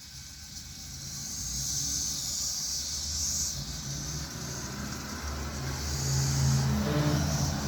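A motor vehicle running past, its low engine hum swelling and peaking near the end, with a high hiss over it.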